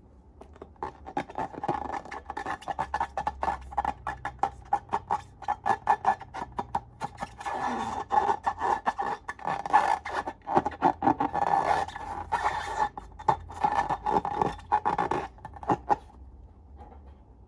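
Slime being squeezed and kneaded by hand, making a rapid run of wet, sticky clicks and pops that stops near the end.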